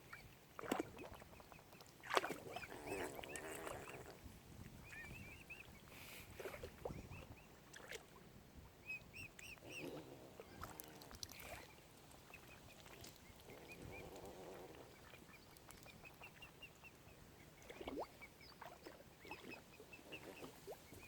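Mute swan cygnets peeping: faint short runs of small, high, repeated notes, between lower calls that come several times, each lasting about a second, and a few sharp clicks.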